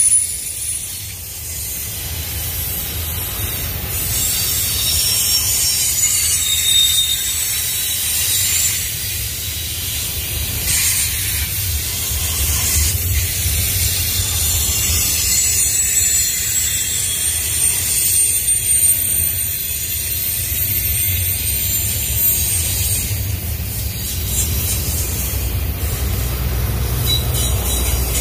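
Intermodal freight train's double-stack well cars rolling past, a steady low rumble of wheels on rail, with intermittent faint high-pitched wheel squeal on the curve.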